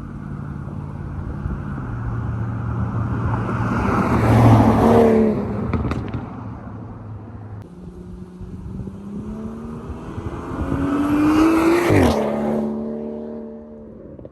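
Straight-piped exhaust of a BMW 340i, muffler and resonators deleted, on its turbocharged 3.0-litre straight-six, heard in two loud runs. Each time the engine note climbs to a peak and then drops in pitch, the second drop sharper than the first.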